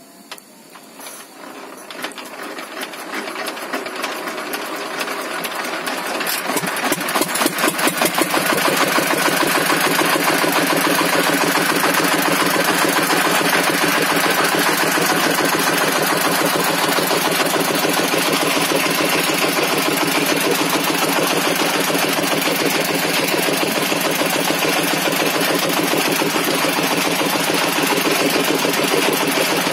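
Log-cutting table saw starting up and running up to speed over about eight seconds, then running steadily and loudly with a fast, even pulse.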